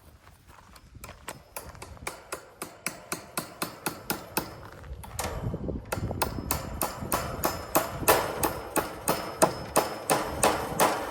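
Hammer driving fence staples into a wooden 2x4 with steady, evenly spaced blows, about three a second, growing louder toward the end.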